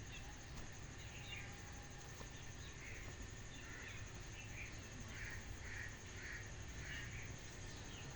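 Birds calling: a series of short calls repeating about twice a second through the middle, with scattered calls before, over a steady low rumble.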